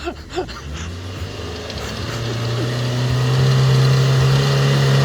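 Motocross motorcycle engine running at a steady pitch, getting louder from about two seconds in and then holding.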